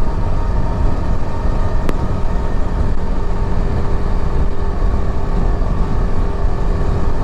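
Yezdi Adventure motorcycle's single-cylinder engine running at a steady highway cruise, a steady drone under heavy wind rush on the rider's microphone, with one sharp click about two seconds in.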